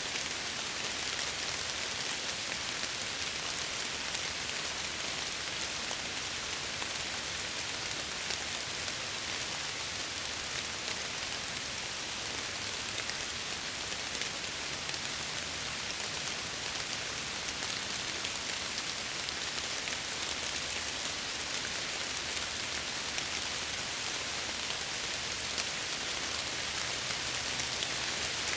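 Steady rain falling, with fine drops pattering on window glass.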